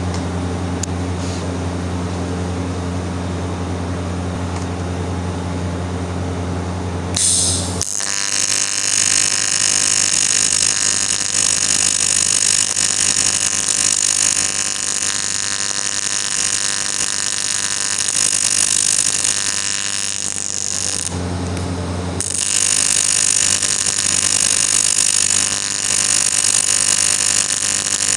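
A TIG welder's steady mains hum, then the harsh buzz of an AC TIG arc welding aluminium, starting about seven seconds in. The arc stops for about a second after some thirteen seconds, with the hum coming back, then strikes again and keeps buzzing.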